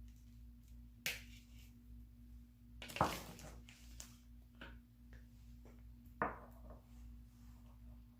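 Short clinks and scrapes of a kitchen utensil against a dish as salmon filling is spooned into hollowed zucchini boats. There are three sharper knocks, about a second in, about three seconds in (the loudest) and just after six seconds, with fainter ticks between them, over a steady low hum.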